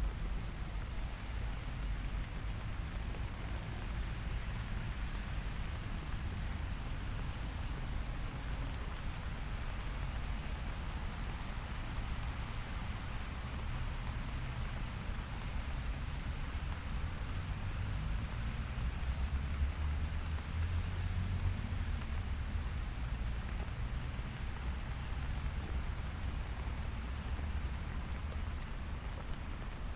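Steady light rain falling on a city street, an even hiss, over a low rumble of traffic that swells about twenty seconds in.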